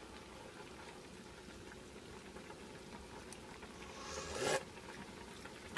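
A single short slurp of chicken soup from a spoon about four seconds in, over faint room tone.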